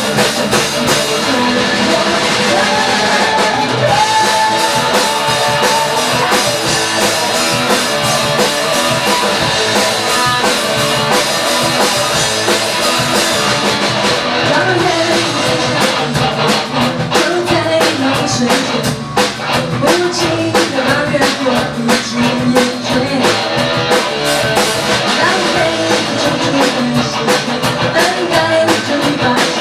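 Rock band playing with singing over drum kit and guitar; the drum hits grow sharper and denser about halfway through.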